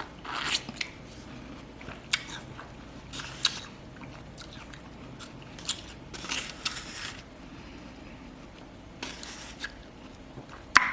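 Someone biting into and chewing juicy watermelon close to the microphone: wet, crunchy mouth sounds in irregular bursts every second or two, with a sharper bite near the end.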